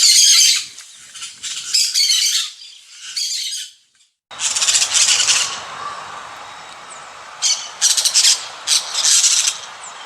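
Small cage birds chirping and twittering in quick high bursts. The sound breaks off abruptly about four seconds in, then the chirping resumes over a steady hiss.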